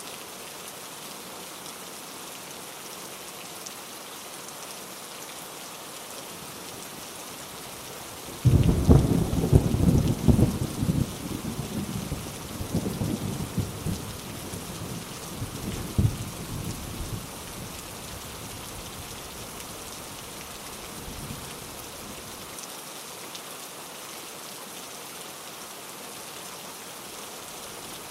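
Steady rain, with a thunderclap breaking in suddenly about a third of the way in and rumbling on in several rolls before fading away over roughly ten seconds.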